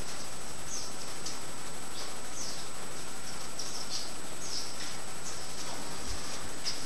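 Small birds chirping: short, high chirps, some falling in pitch, at irregular intervals over a steady hiss.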